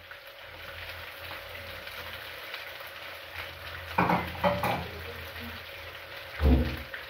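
Mixed fish, chicken, beef and potatoes sizzling steadily in oil in a frying pan on a gas stove, with a few louder knocks of handling about four seconds in and near the end.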